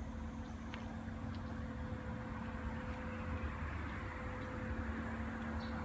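Electric freight train running, a steady low rumble with an even electrical hum, the running noise growing a little louder mid-way.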